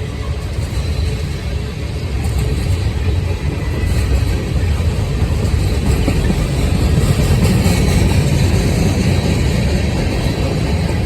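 Freight train cars rolling past on the track, a steady low rumble of wheels on rail that builds a little partway through.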